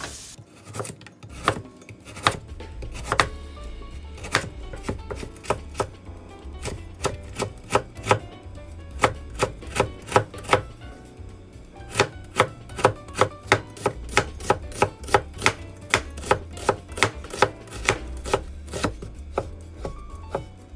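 A kitchen knife chopping vegetables into thin strips on a cutting board: a long run of sharp knocks, uneven at first, then steadier at about two to three a second from about halfway through.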